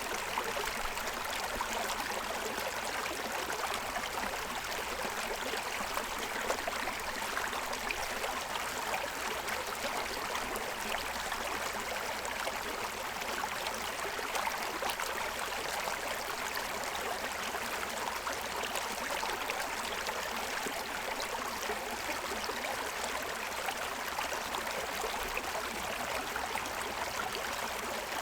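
Small forest stream running over the stones of its bed: a steady, even rush of water with fine splashing and gurgling all through.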